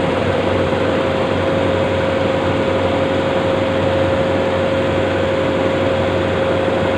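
A machine running steadily, with a constant whine held on one pitch over an even mechanical rush and a low hum.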